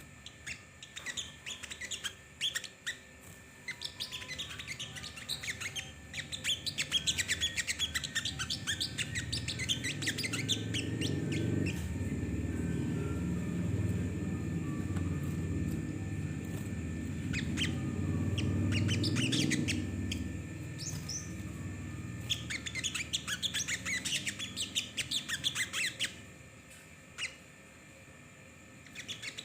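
A small songbird, the sogon, singing fast, chattering runs of high chirps in several spells with short pauses between. A low rumble runs beneath the song through its middle part.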